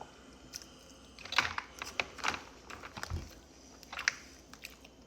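A person chewing food close to the microphone, with wet, sharp mouth clicks and smacks, most of them between about one and two and a half seconds in and again near four seconds.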